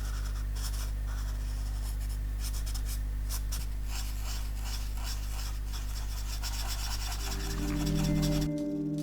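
Ink pen scratching across paper in many short strokes, over a steady low hum. Music comes in near the end.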